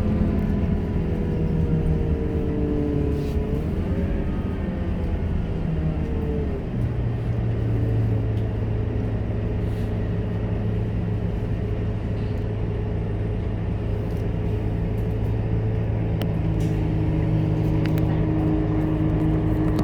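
Scania K230UB city bus's diesel engine running, heard from inside the bus. Its pitch drops in steps during the first few seconds, then holds steady.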